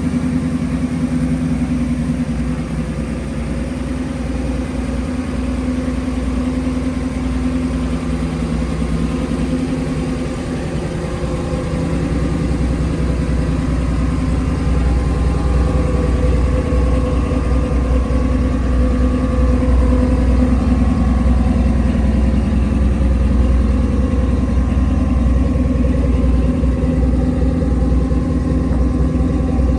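Swapped-in V8 engine of a custom Chevrolet S-10 pickup idling steadily, its tone shifting slightly about ten seconds in.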